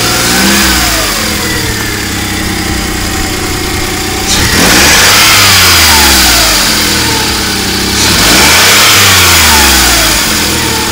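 SEAT Ibiza car engine revved up and let fall back three times, its pitch climbing and sinking with each rev; the second and third revs, about four and eight seconds in, are the loudest.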